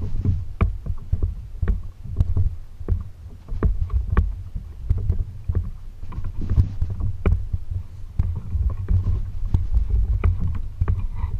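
Kayak on the water: a continuous low, uneven rumble with scattered light knocks and clicks.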